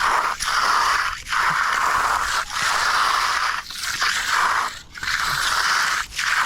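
A hand finishing tool scraping across a concrete slab in repeated strokes, about one every 1.2 seconds, each lasting nearly a second with a short break between them.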